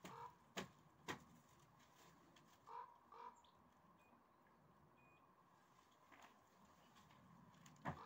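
Faint, short bird calls now and then, with two sharp clicks about half a second apart near the start.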